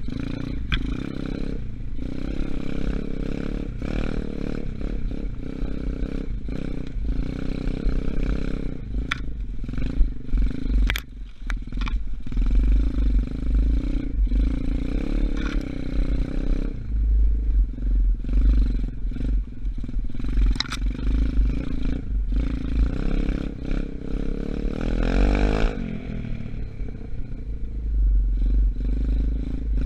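Engine of a 125cc Gunshot dirt bike, still being run in, running as it is ridden, with heavy wind rumble on the microphone and scattered clattering knocks. About 25 seconds in the engine revs up and drops back once.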